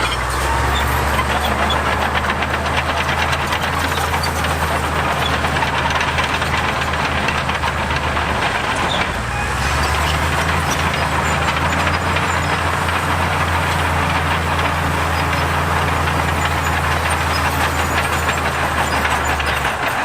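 Heavy construction machine's diesel engine running steadily, with a brief dip in its low engine note about nine seconds in.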